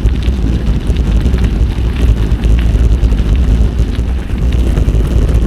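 Wind buffeting the microphone of a bike-mounted camera while riding, a steady deep rumble, with faint crackle of tyres rolling over a wet gravel track.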